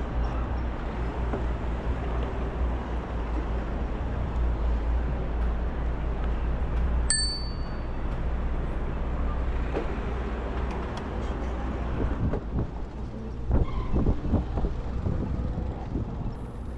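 A bicycle bell dings once about halfway through, its ring lasting about a second, over a steady low rumble of wind and road noise from riding. Several rattling knocks come near the end.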